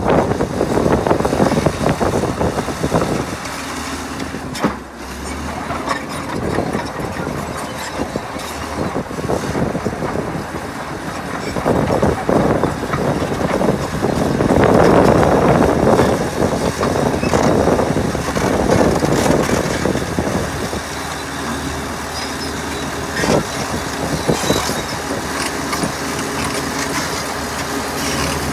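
Heavy diesel earthmoving machinery working: a steady engine note, growing louder and noisier for a few seconds around the middle before settling again.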